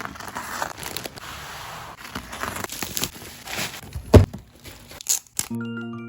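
Packaging crinkling and rustling as a boxed set is unwrapped, with one heavy thump about four seconds in. A light mallet-percussion tune starts just before the end.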